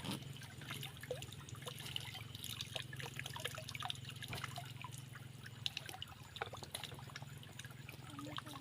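Water trickling and dripping: many small drips and plinks, scattered and irregular, over a low steady hum.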